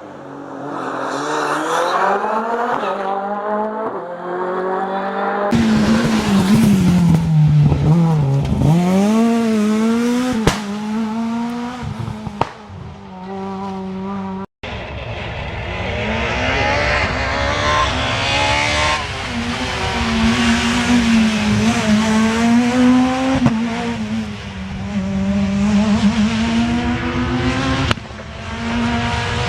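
Rally cars driven hard one after another, their engines revving up and dropping back through gear changes, with tyre squeal. The sound changes abruptly about five seconds in and again about halfway through, as a new car takes over.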